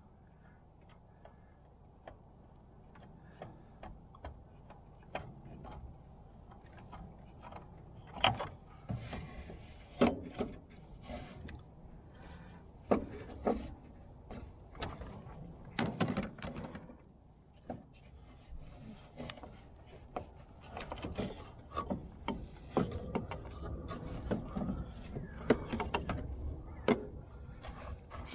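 Irregular clicks and knocks of hand work on the car during an oil change, over a low steady rumble; sparse at first, then busier from about eight seconds in.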